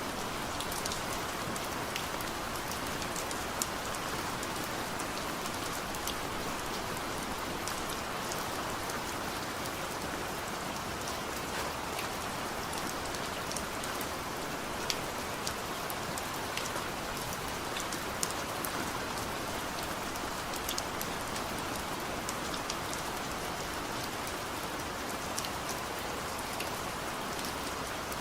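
Heavy rain falling steadily, a constant hiss dotted with many sharp clicks of single drops striking a surface.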